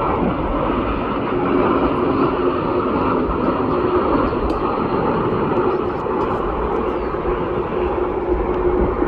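A steady mechanical drone with a constant hum.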